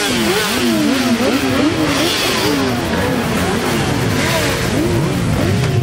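A crowd of motorcycles riding past close by, several engines revving up and down at once in quick, overlapping blips of the throttle.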